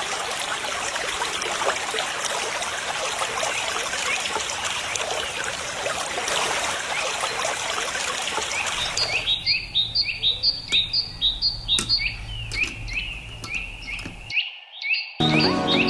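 Water spraying and trickling in an even hiss for about nine seconds, then a bird chirping in a quick, regular series. After a short break, music starts near the end.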